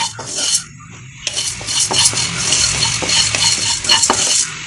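Whole spices (coriander seed, fennel seed, peppercorns, cinnamon, cloves, star anise) stirred with a spoon as they dry-roast in a pan: scraping and rattling with small clicks of the spoon against the pan. There is a short burst at the start, then a longer spell of stirring from about a second in.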